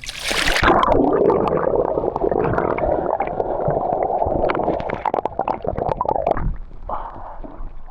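A splash into a swimming pool, then loud muffled gurgling and bubbling of water close to the microphone, dying away about six and a half seconds in.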